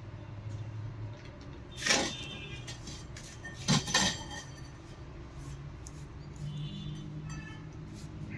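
Metal parts being handled and knocked together, with sharp ringing clinks: one about two seconds in, then a quick double clink about two seconds later.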